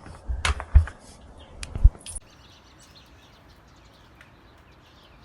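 A few sharp knocks and thumps in the first two seconds, then soft chirping of small birds, short calls repeating a few times a second.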